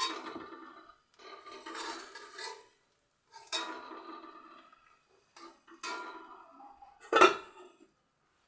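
A metal cooking utensil scraping and knocking against a pan as fried potatoes are lifted out of hot oil, in about five separate strokes. The last stroke, near the end, is the loudest and sharpest.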